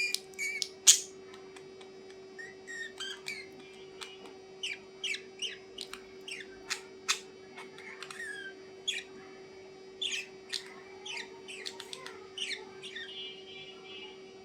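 A bird giving a rapid series of short, sharp chirps and squeaks, many falling in pitch, with the loudest call about a second in, over a steady low hum.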